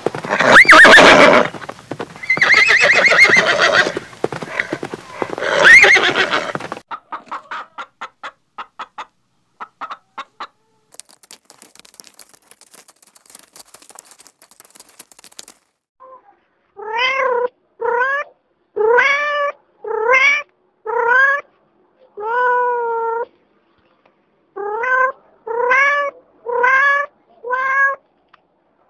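A horse whinnying and snorting for the first several seconds, then faint ticking and a high hiss. From about halfway through, a kitten meows about a dozen times in short calls that rise and fall in pitch.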